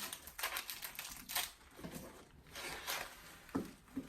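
Plastic sweet packaging rustling and crinkling as it is handled, in irregular short bursts.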